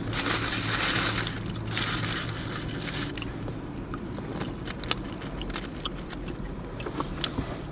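Close-up eating sounds from a chicken shawarma: a few crunchy, rustling bites in the first three seconds, then steady chewing with many small wet clicks.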